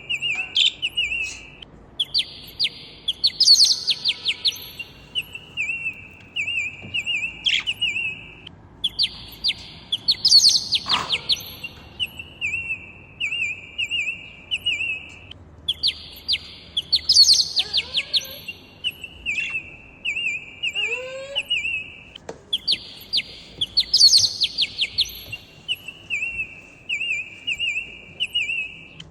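Pet parrots chirping and twittering in quick high runs, the same phrase pattern coming round about every seven seconds, with a few lower whistled slides now and then.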